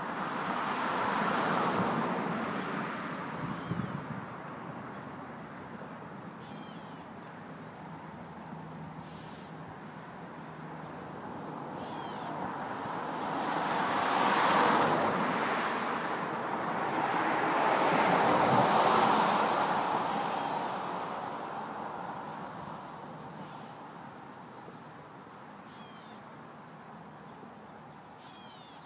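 Vehicles passing on a road one after another: a swell of tyre and engine noise that rises and fades near the start, then two more close together past the middle. Crickets chirp faintly throughout.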